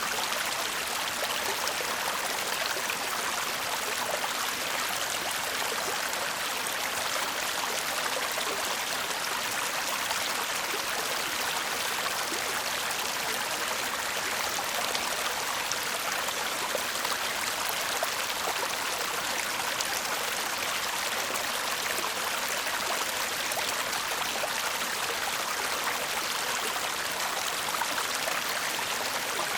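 Shallow stream babbling and trickling steadily over stones, a continuous murmur of water.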